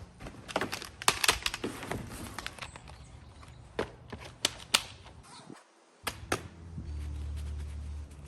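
Scattered sharp clicks and knocks of protective pads and gear being handled and strapped on, irregular and several a second at first. After a brief dropout, a steady low hum comes in near the end.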